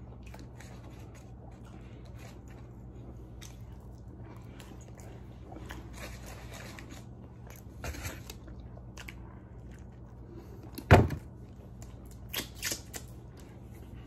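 A man chewing chicken wings with soft mouth clicks over a steady low hum. One loud thump about eleven seconds in, followed by two smaller sharp sounds.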